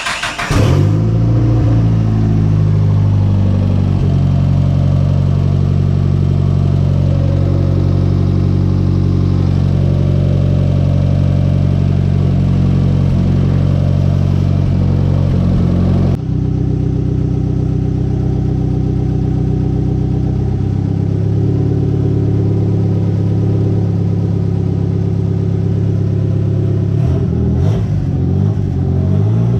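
Turbocharged Mitsubishi G54B 2.6-litre four-cylinder engine in a Chrysler Conquest running steadily at a fairly constant speed. The sound changes abruptly about halfway through and shifts again near the end.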